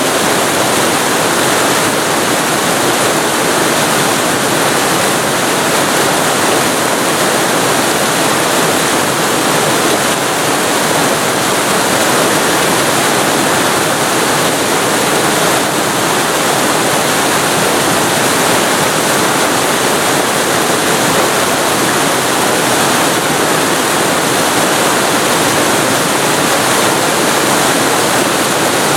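Waterfall recorded very close to the falling water: a loud, steady, unbroken rush of water.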